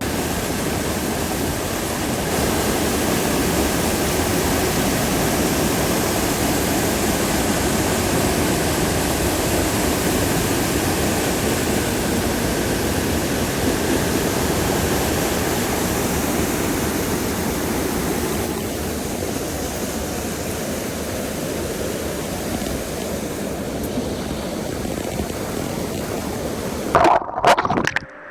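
Steady rushing of flowing water, like a stream or waterfall, cutting in suddenly and ending abruptly about a second before the end.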